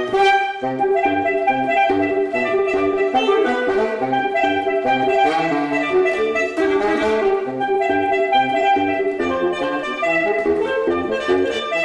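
Instrumental music: a saxophone playing a melody of changing notes over a low bass line.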